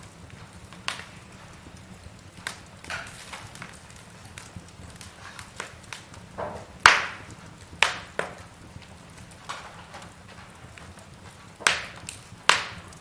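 Burning logs crackling in a fireplace: irregular sharp pops and cracks over a faint steady low rumble, the loudest crack about halfway through and two more near the end.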